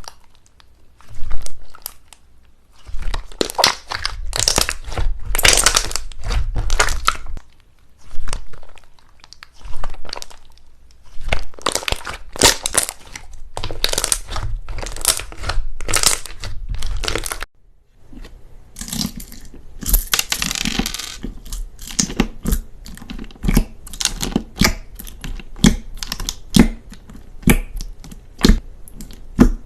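Slime being squeezed and pressed by hand, crackling and popping in long runs. After a sudden break a little past halfway, it turns to quicker separate clicks and soft pops.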